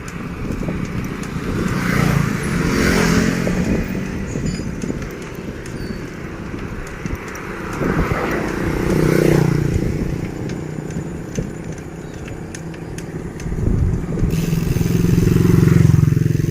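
Motorcycles going past, three in turn, each engine note swelling and fading, over a steady low rumble.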